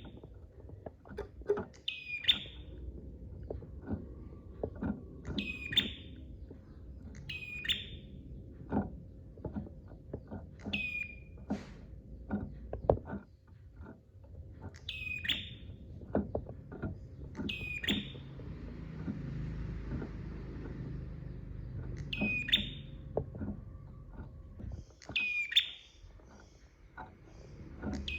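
Prenjak (prinia) singing: sharp, high call notes repeated about every two seconds, with quick ticking notes in between.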